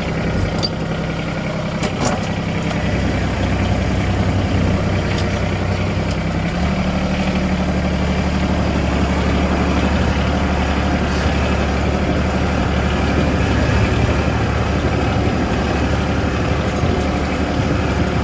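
Vehicle engine idling steadily, its speed rising slightly about six and a half seconds in, with a couple of short metallic clicks near the start.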